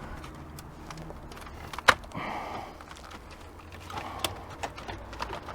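Scattered clicks and knocks from plastic dashboard trim being handled, with one sharp click about two seconds in followed by a brief scrape, and a few lighter clicks near the end.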